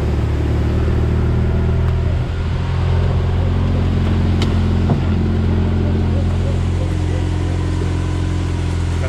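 A vehicle's engine running steadily while driving, its note shifting about two seconds in.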